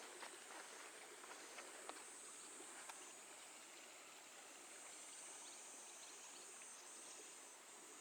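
Near silence: a few faint footsteps during the first three seconds, over a faint steady high insect chirr.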